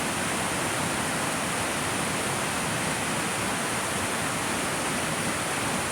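Mountain spring water gushing out of the rock and falling as a small waterfall, a steady even rushing.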